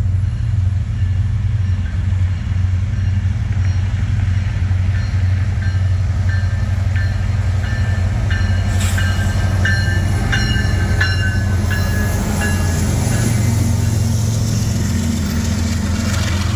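Freight train led by Kansas City Southern diesel locomotives rolling past, with a steady low engine rumble throughout. Brief high-pitched squeals come and go in the middle.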